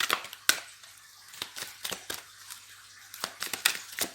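Oracle cards being shuffled and handled by hand: irregular crisp snaps and rustles of card stock, a few of them sharper slaps.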